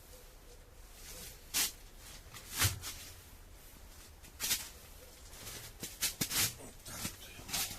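A handful of short knocks and rustles of objects being handled, about six in all, the loudest a knock with a low thud a little under three seconds in.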